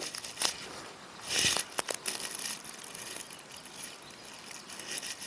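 Rustling and a few sharp clicks from hands handling fishing line and tackle, over a faint steady high-pitched hiss.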